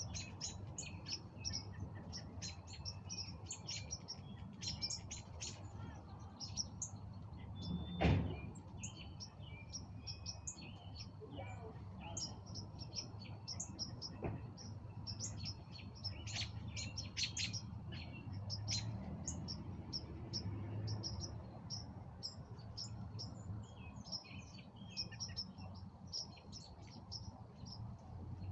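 Many small birds chirping over a steady low rumble. A single sharp knock about eight seconds in is the loudest sound, with a fainter one later.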